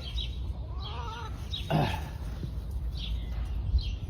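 Animal calls: a short wavering call about a second in, a quick falling squawk, then several short high chirps, over a steady low rumble.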